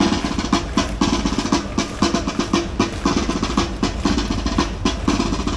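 Marching drums, snare and bass, beating a quick, steady rhythm.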